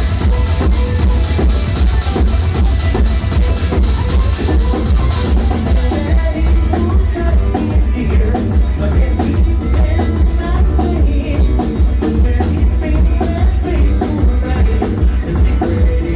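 A live band playing a rock cover, with a steady drum-kit beat and heavy, booming bass.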